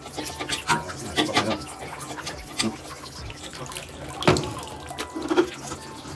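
Water splashing in a slow-draining shower while the drain trap is being worked loose, with a string of sharp knocks and clanks; the loudest comes about four seconds in.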